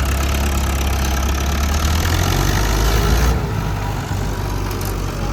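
Heavy diesel engine idling steadily. About three seconds in, the low hum shifts and the higher hiss over it drops away.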